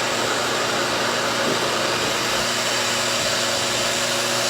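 Reverse-air hair dryer running steadily: an even whir of its motor and suction airflow with a low, steady hum.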